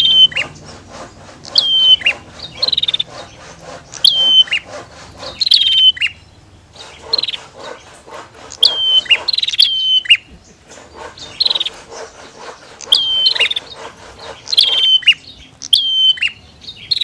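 Prinias calling: sharp, high whistled phrases that repeat every second or two over a fast, dry ticking rattle, the male and female prenjak calls used to stir caged birds into song.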